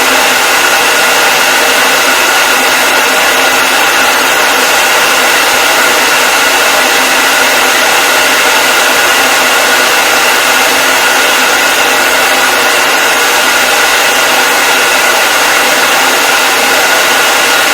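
Hair dryer running steadily: a loud, unchanging rush of air with a steady motor whine.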